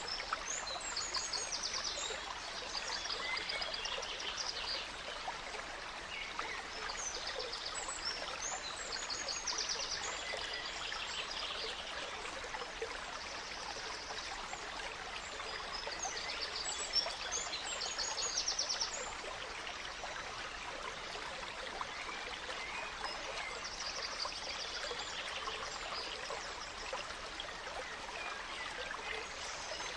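A gentle stream running steadily, with songbirds singing over it in recurring phrases of quick high chirps and trills.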